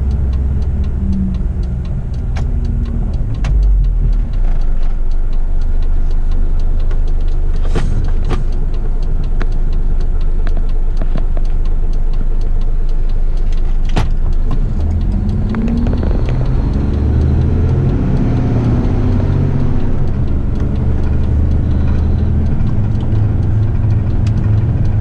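Heavy rigid truck's diesel engine running steadily on the road, with its note climbing about fifteen seconds in as it pulls harder.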